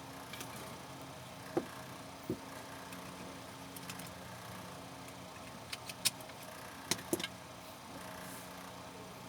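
Scattered light clicks and taps from small parts being handled during work on an extension cord, a few at first and a quick cluster past the middle, over a steady hum.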